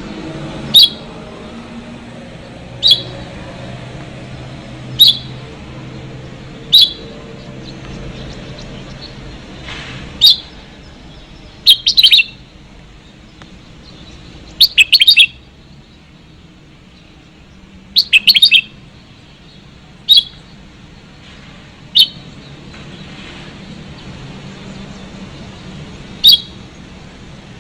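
Red-whiskered bulbuls calling: short, loud chirps repeated every couple of seconds. Three times, at about 12, 15 and 18 seconds, they break into quick multi-note phrases. This is a bird-trapping lure recording of one female and two males.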